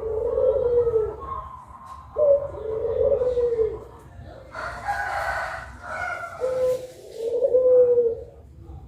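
Puter pelung doves cooing: long drawn-out coos, each starting high and sliding slowly down, three in a row, with a harsher, noisier call about halfway through.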